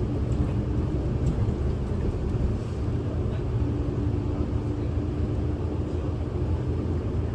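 Interior of a Kyoto City bus: a steady low engine and road rumble with an even hum from the engine and drivetrain, the bus running at a constant engine speed.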